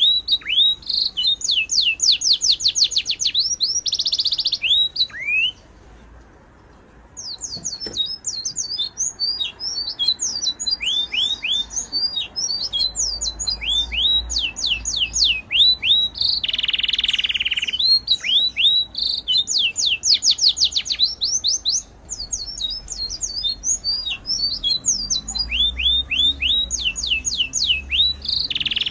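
Birds chirping in fast runs of short, high, falling notes, with a brief lull about six seconds in and a few harsher squawk-like calls.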